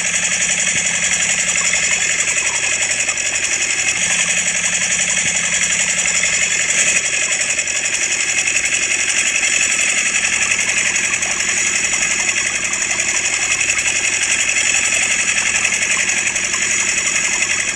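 Miniature model diesel engine and its toy water pump running steadily: a continuous, high-pitched mechanical running sound.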